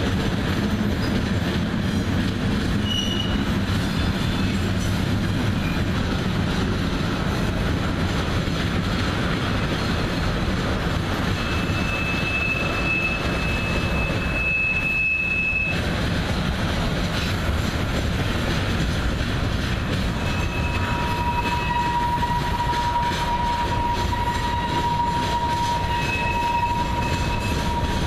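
Freight cars (covered hoppers and tank cars) rolling past with a steady rumble and clatter of wheels on rail. Thin high wheel squeals come and go: one about 12 s in lasting a few seconds, and from about 20 s in a lower steady squeal that holds to the end, with higher squeals over it.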